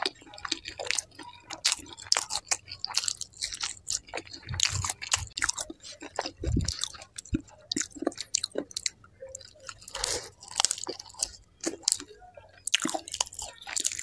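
Close-miked eating sounds: a person chewing naan with kadhai paneer gravy, with wet smacking and squishing clicks coming thick and irregular.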